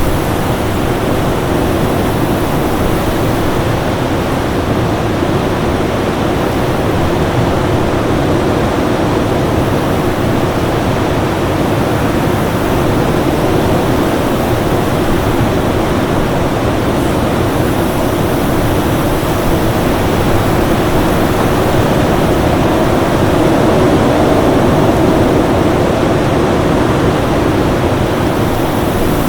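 Winter storm wind as a steady, dense roar that swells slightly about three-quarters of the way through, with a faint steady tone underneath.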